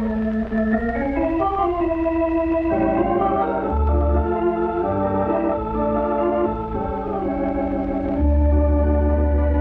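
Background organ music: sustained chords that change every second or so, with deep bass notes coming in briefly about four seconds in and again, held, past eight seconds.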